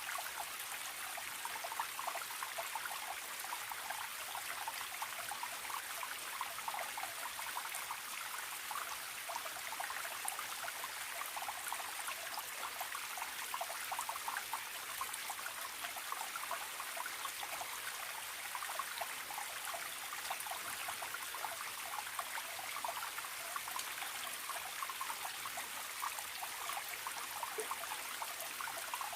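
Small forest stream trickling and babbling steadily, a dense patter of little splashes.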